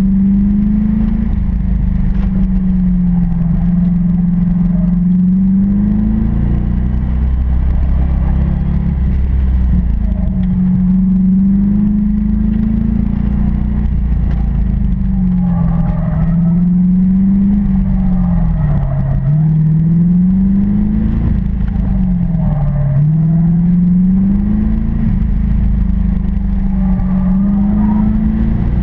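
A 1992 Corvette's V8 engine heard from inside the cabin at full effort on an autocross course, its revs climbing and dropping over and over as the car accelerates hard and slows for the turns.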